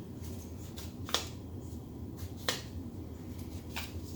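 A few light, sharp clicks and taps from handling acrylic paint bottles and a cup while colours are added for a pour; the two loudest clicks come about a second in and about two and a half seconds in, over a steady low hum.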